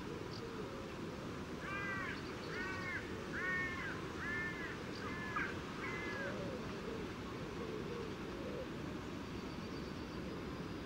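A bird calling six times in a row, one call about every 0.8 seconds, starting about two seconds in, over a steady low background noise.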